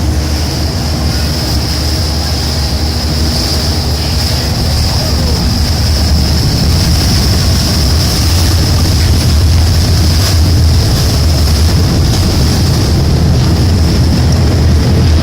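Boat engine running steadily: a low drone with an even high hiss, a little louder from about six seconds in.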